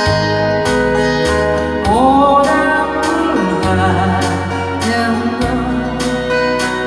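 A woman singing a slow ballad over a backing of keyboard, guitar and a steady beat; her sung phrase enters about two seconds in.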